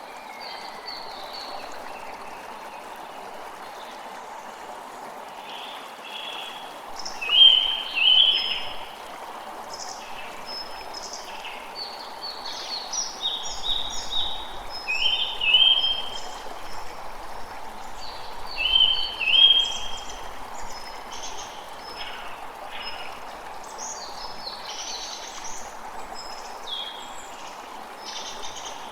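Creek running steadily, with several birds singing and calling over it; the loudest bird phrases come in a few bursts through the middle.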